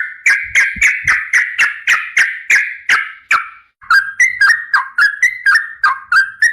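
Yellow-vented bulbul (trucukan) singing a long, rapid run of harsh repeated notes, about three to four a second. After a brief break a little past the middle, the notes come quicker and sharper, each jumping between two pitches.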